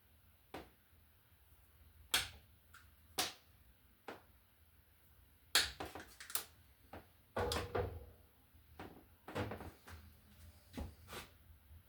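Irregular clicks, taps and short scrapes of hand tools and electrical wires being handled at a wall outlet box, with a longer scraping rustle about two-thirds of the way through.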